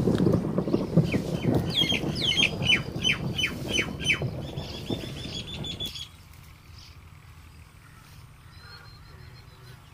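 A bird calling in a quick series of about eight sharp descending notes, then a fast trill, over a low rumble that fades and cuts off suddenly about six seconds in.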